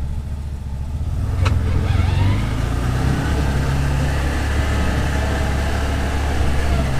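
CFMoto UForce 1000 side-by-side's V-twin engine pulling away in low range through a freshly fitted MSC Stage 1 clutch kit. It rises about a second in, then runs steadily under load. A single click comes about a second and a half in.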